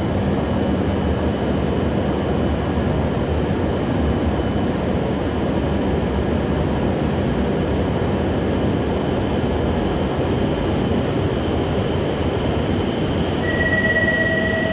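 Coupled E5 and E6 series Shinkansen trainset pulling into a station platform, with a loud, steady running rumble. Near the end a high, steady squeal sets in as the train slows.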